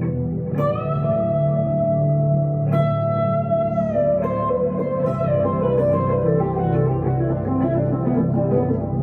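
Electric lead guitar, a 1962 Gibson Les Paul Custom through a Two-Rock Emerald Pro amplifier, playing two long held notes, then a note bent down in pitch and a run of quicker notes.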